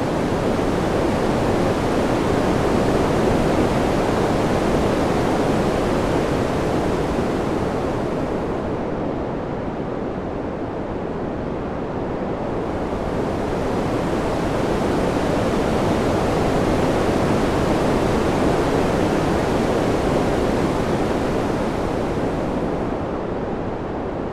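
Wind ambience: a steady, soft rushing noise that swells and ebbs slowly. The hissy top end drops away about nine seconds in, returns about three seconds later, and fades again near the end.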